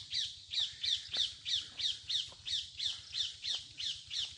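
A bird calling over and over, about three short high notes a second, each dropping in pitch, in an even, unbroken rhythm.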